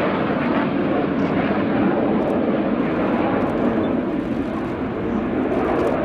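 Steady jet noise from a formation of BAE Hawk T1 jets and their Rolls-Royce Turbomeca Adour turbofan engines, flying overhead.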